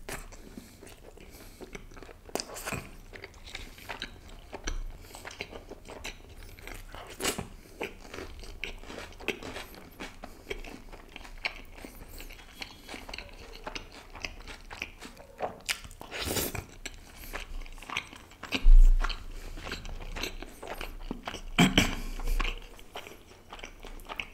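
Close-up eating sounds: a man chewing and biting butter chicken and naan, with many short wet clicks and smacks of the mouth. A deep thump about three-quarters of the way through.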